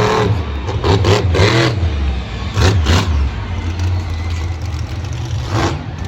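Monster truck engine running with a steady low rumble, revving up in short bursts about a second in, around three seconds and near the end.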